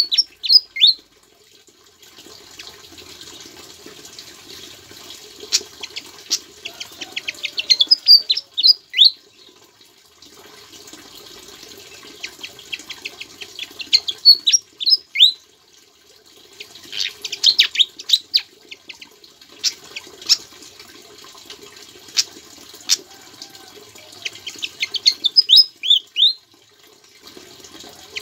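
A sikatan jawa songbird singing in repeated bouts of rapid high chirps, each ending in a few quick downward-sweeping notes, a new bout every several seconds. Its song is filled out with borrowed ciblek (bar-winged prinia) phrases.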